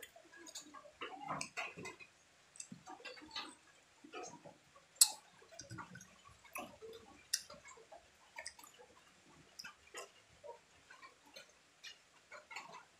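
Close-up chewing of juicy peeled orange segments: irregular wet smacks and small mouth clicks, with two sharper clicks about five and seven and a half seconds in.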